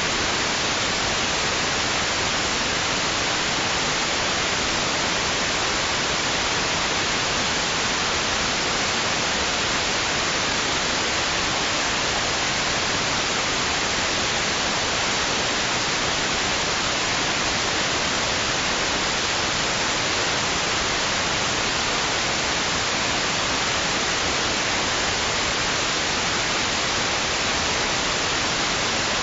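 White noise for soothing a baby: a steady, even hiss that never swells or pauses.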